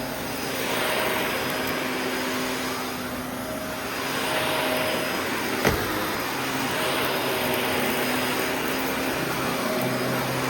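Shark vacuum cleaner running, a steady motor hum under a rush of air that swells and fades every few seconds. A single sharp knock about five and a half seconds in.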